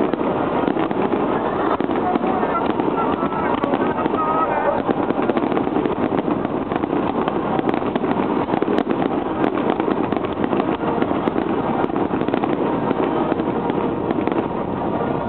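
Aerial firework shells bursting one after another, heard as a dense, continuous crackle of many sharp reports with no break.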